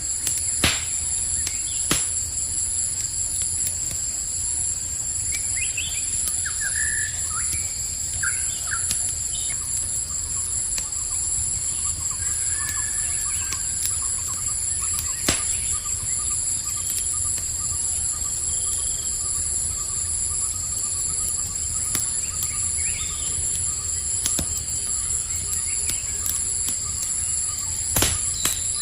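Campfire crackling with occasional sharp pops and a low steady rumble, under a continuous high-pitched chorus of crickets. A few short bird chirps come in during the first half.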